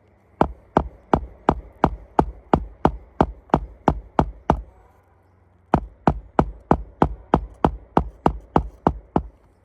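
Hammer striking on a roof during a shingle repair, in quick even blows about three a second: a run of about a dozen, a pause of about a second, then another run of about a dozen.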